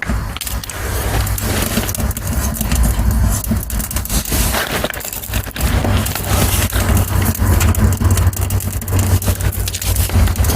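Dry twigs and kindling crackling and snapping as a small fire catches in a little stove, a dense run of irregular pops. A steady low rumble runs underneath.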